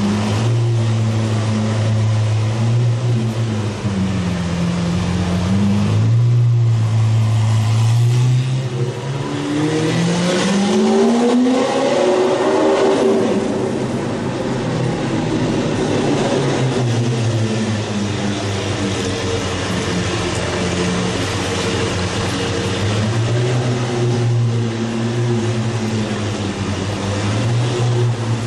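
Lamborghini Aventador V12 engine running as the car drives off at low speed. About nine seconds in, it revs, the pitch rising for a few seconds and falling away, then settles back to a steady low running note.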